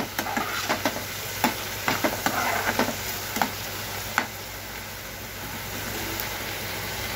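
Chopped onion with crushed garlic and green chilli sizzling in hot oil in a frying pan, stirred with a steel spoon that clicks and scrapes against the pan for the first four seconds or so, then a steadier sizzle.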